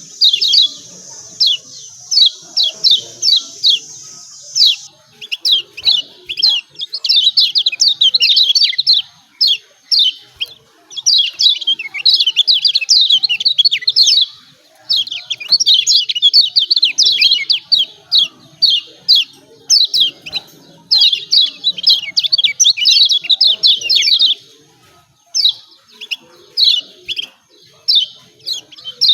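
Kecial kuning (Lombok white-eye) giving its excited 'ciak ciak' chatter: rapid runs of sharp, high, downward-sliding chirps in bursts a second or two long, separated by short pauses.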